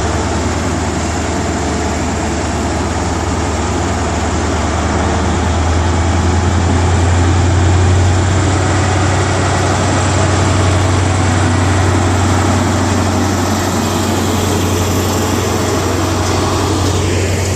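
Class 43 power car of a departing High Speed Train (InterCity 125) running its diesel engine under power, a steady deep drone with wheel and rail noise, swelling a little about halfway through.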